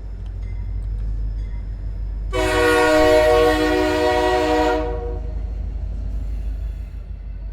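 G-scale model locomotive running over a steady low rumble, its onboard sound sounding one long horn blast of about two and a half seconds, starting a little over two seconds in.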